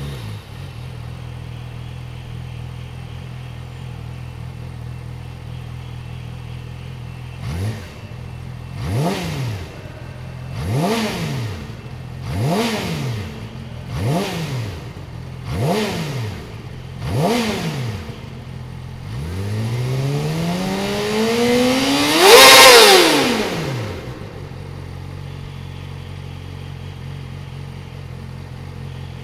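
Yamaha YZF-R6 inline-four engine through an Akrapovič slip-on exhaust, idling steadily, then blipped sharply seven times about every second and a half, then revved in one long rise to a high-pitched peak and dropped straight back to idle.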